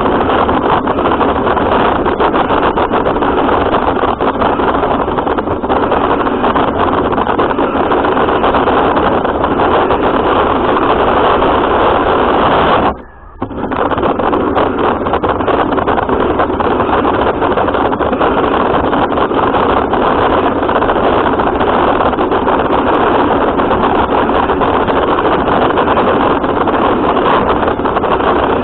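Radio-controlled car driving, heard from a camera mounted on it: a loud, steady rush and rattle of motor and running gear. The sound drops away briefly about thirteen seconds in.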